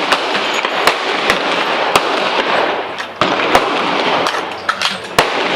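Gunfire at a shooting range: a dozen or so sharp shots at irregular spacing, from more than one gun, over a steady background hiss.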